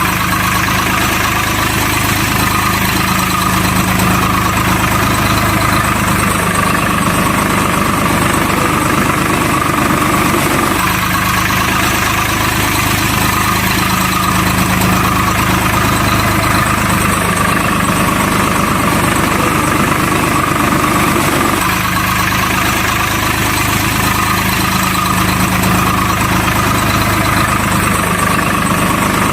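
Truck engine idling steadily, a recorded engine sound that loops, repeating the same pattern about every eleven seconds.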